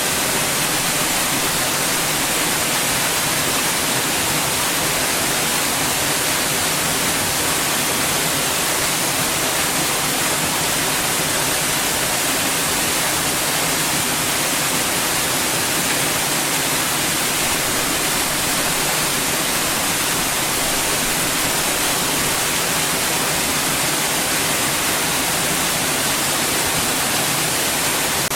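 Steady white noise: an even, unchanging hiss, brightest in the high end, with no rhythm or breaks.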